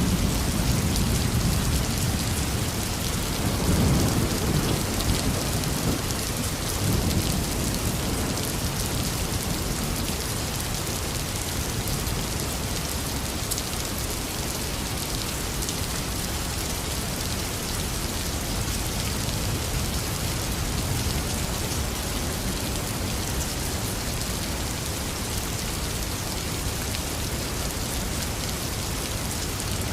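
Intense rain falling steadily, with rolls of thunder rumbling low in the first several seconds and then fading, leaving the rain alone.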